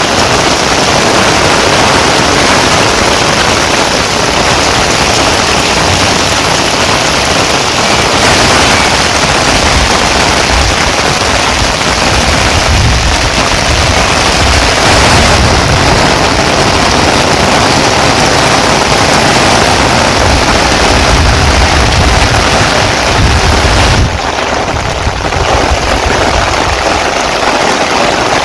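Heavy rain pouring down, a loud, dense, steady hiss with a crackling patter. It turns duller for a few seconds near the end.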